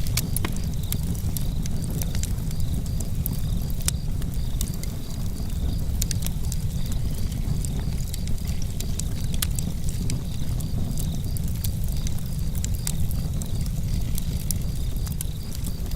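Campfire crackling: many sharp, irregular pops and snaps of burning wood over a steady low rumble of the fire.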